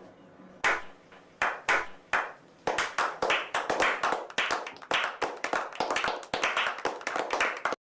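Hands clapping: a few separate claps, then quicker, irregular clapping like applause, cutting off suddenly near the end.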